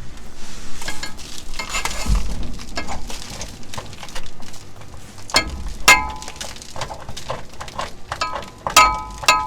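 Metal hand tools clinking and scraping against the truck's underside hardware: a stretch of gritty scraping, then sharp metallic clinks with a brief ring, the loudest about six seconds in and a cluster near the end.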